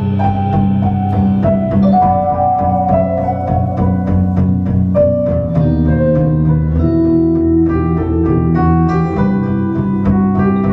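Live band playing an instrumental break in a song: held chords over a steady bass line, with light percussion strokes throughout.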